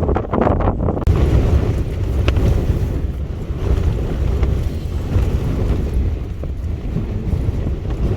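Strong gusting wind, heavy wind noise rumbling on the microphone, with a few sharp taps in the first second and one more about two seconds in.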